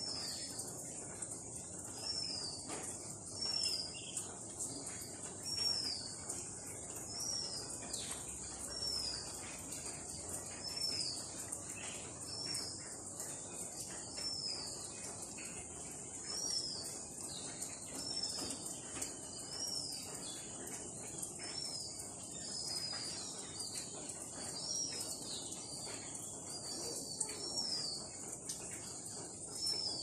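A bird repeating a short, high, downward-slurred call about once a second, over a steady high-pitched drone of insects.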